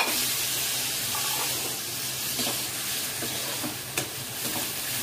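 Diced vegetables sizzling in oil in a kadai while a metal spoon stirs and scrapes them around the pan, with a sharp clink of spoon on pan at the start and again about four seconds in. The vegetables are being sautéed to drive off their water.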